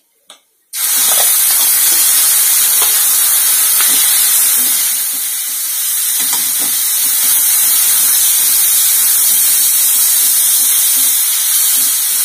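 Marinated chicken pieces dropped into hot oil and onion masala in a kadhai: a loud sizzle starts suddenly under a second in and carries on steadily, with soft knocks and scrapes from a wooden spatula stirring the chicken.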